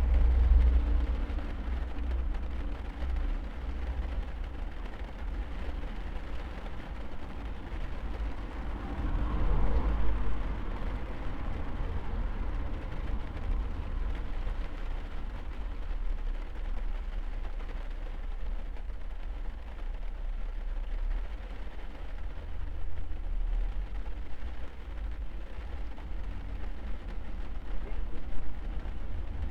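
Rain on a car's roof and windows heard from inside the car, over a steady low rumble, with a louder swell about nine seconds in.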